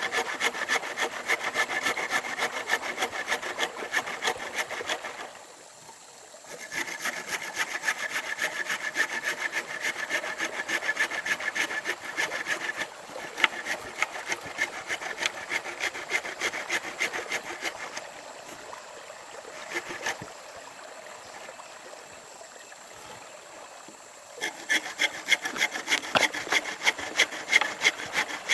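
Hand saw cutting through wood in quick, steady back-and-forth strokes. It stops briefly about five seconds in, goes quieter for several seconds after the middle, then saws hard again near the end.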